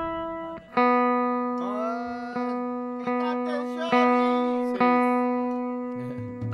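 Guitar strumming and letting one chord ring, struck again about once a second, each strum fading before the next.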